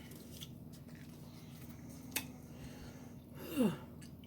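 Quiet mouth sounds of a person eating, with one sharp click about two seconds in and a short hum falling in pitch near the end.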